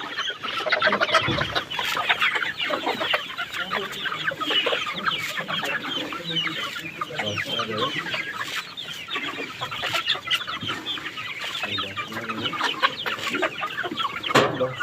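A flock of young Golden Misri chickens, about two months old, chirping and clucking, with many short calls overlapping continuously.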